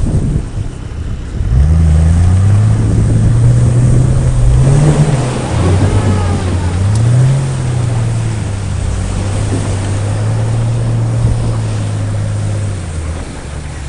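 Off-road vehicle engine pulling under throttle: it picks up about a second and a half in, the revs rise and fall twice, then hold steady before dropping away near the end.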